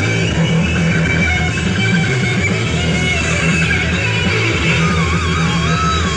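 Loud music played at full volume through a large speaker rig, with a heavy, pulsing bass line. A wavering high melody line comes in about five seconds in.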